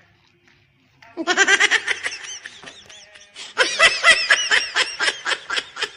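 About a second of near silence, then laughter in quick repeated 'ha' pulses, in two bouts: the second starts about three and a half seconds in and is louder.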